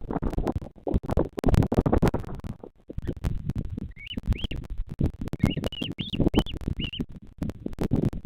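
Loud, irregular rumbling and crackling noise on the nest camera's microphone. From about four seconds in, a run of short, high, upward-sliding chirps from a bird comes through it several times.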